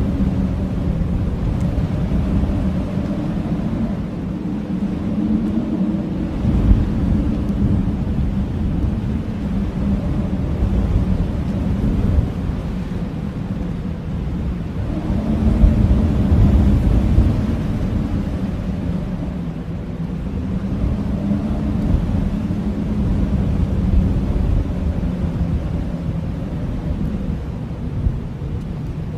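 Blizzard wind howling and gusting over a deep rumble; the moaning howl swells and fades in slow gusts several seconds long.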